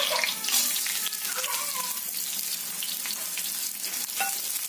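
Chopped onion dropped into hot oil with frying green chillies, sizzling loudly at first and then frying steadily in a steel kadhai. A metal spatula starts stirring near the end, with a short clink about four seconds in.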